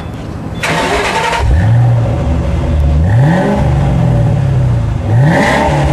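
Ford Shelby GT500 V8 breathing through Flowmaster mufflers starts up about a second in, settles into a low idle, and is revved briefly twice.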